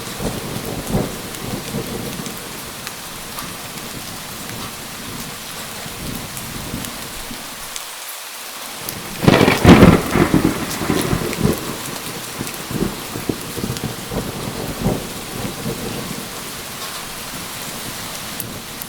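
Steady heavy rain with thunder. A low rumble fades over the first few seconds, then about halfway through a loud close thunderclap cracks and rolls off in a long rumble that dies away.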